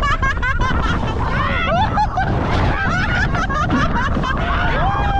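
Passengers laughing and shrieking in short high gliding cries, over heavy wind buffeting the microphone and the rumble of the moving boat.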